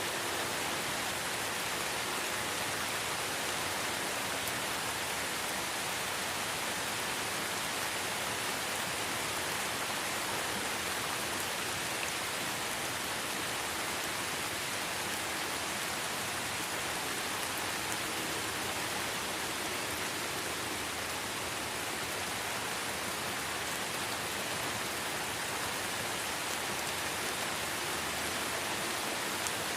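Steady light rain falling in a forest, an even hiss of many small drops with no change in level.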